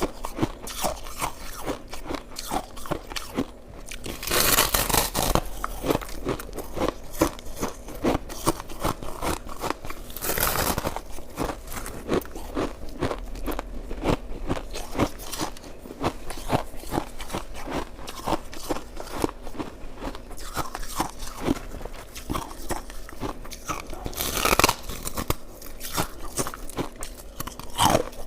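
Close-up crunching and chewing of shaved ice: a steady run of small crisp crunches, with three louder, fuller bites about four, ten and twenty-four seconds in.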